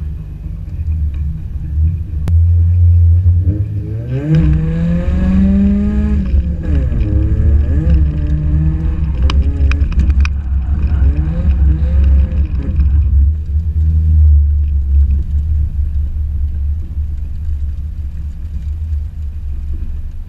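Toyota AE70 Corolla's 4A-GE engine heard from inside the cabin. It revs up about three seconds in and swings up and down hard for around nine seconds, with a few sharp clicks in the middle. It then drops back to a low, steady rumble.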